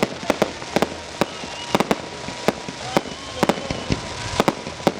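Fireworks going off in a rapid, irregular string of sharp cracks and bangs, several a second, with a thin whistling tone running faintly beneath.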